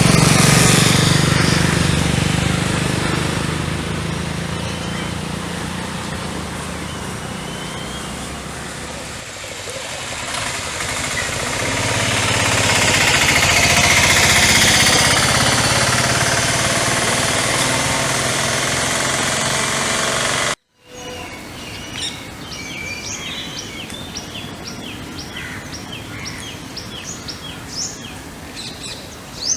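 Passing road traffic, a broad rushing noise that swells twice as vehicles go by. After a sudden cut, small birds chirp in quick runs of short, high notes.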